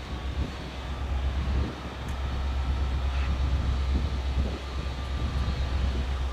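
Intermodal freight train running past, a steady low rumble.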